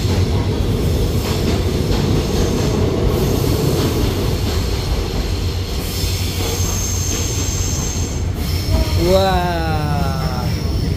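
Passenger car of the Baekdudaegan Canyon Train heard from inside, wheels on the rails running with a steady rumble through a tunnel. Partway through the wheels squeal with a high steady tone for about two seconds, and near the end a falling tone sounds as the car comes out into daylight.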